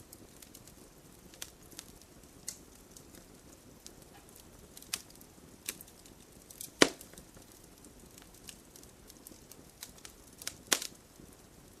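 Wood campfire crackling: a low steady hiss with scattered sharp pops and snaps. The loudest pop comes about seven seconds in, and another near the end.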